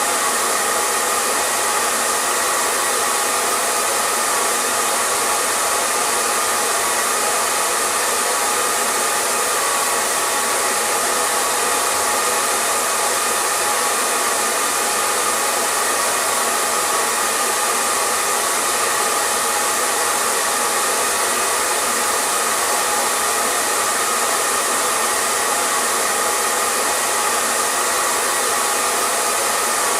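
Hair dryer running steadily: an even rush of blown air over a faint motor hum, with no change in speed or level.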